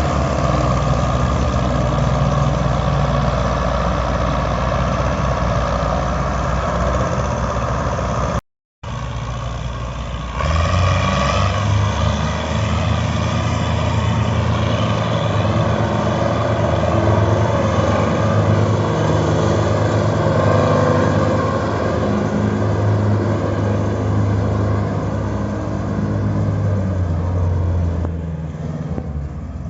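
Belarus 510 tractor's diesel engine running hard, its note rising and falling as it is worked under load. The sound drops out briefly about eight seconds in and comes back with a deeper, louder engine note.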